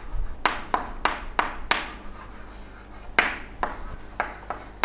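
Writing: a run of short scratchy strokes of a pen or chalk on a writing surface, about a dozen, with a brief pause in the middle.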